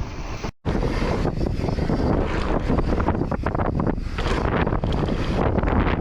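Mountain bike descending a dirt trail: wind buffeting the microphone over tyre roar and the rattle of the bike over rough ground. The sound cuts out briefly about half a second in, then carries on.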